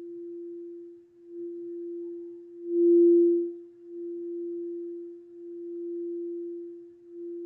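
Singing bowl sounding one steady, sustained tone that swells and fades in slow waves, struck once about three seconds in, which is the loudest moment.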